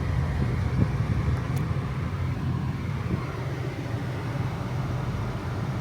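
Steady low rumble of a car's engine and tyres heard from inside the cabin while driving on a slushy, snow-covered road.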